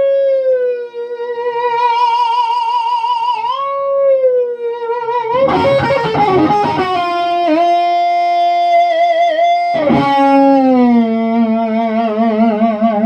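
Electric guitar, a one-piece swamp ash solid-body with Lindy Fralin pickups, playing a sustained lead through an amp: long held notes with wide vibrato and slides, and two hard picked chords about five and ten seconds in.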